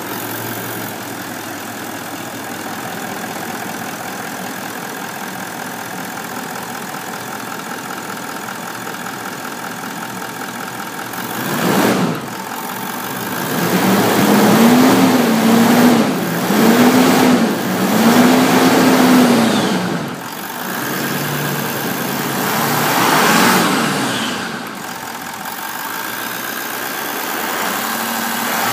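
Toyota Land Cruiser 200's 4.5-litre D-4D V8 diesel idling steadily, then revved three times in quick succession about halfway through, each rev rising and falling in pitch, with a smaller rev a few seconds later. A short loud burst comes just before the revs.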